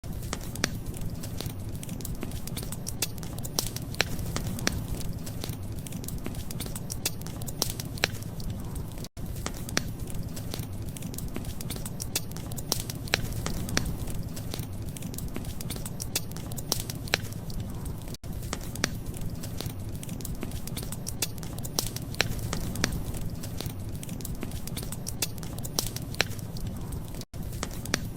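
Wood fire crackling, with frequent sharp pops and snaps over a steady low rumble. The sound drops out briefly about every nine seconds.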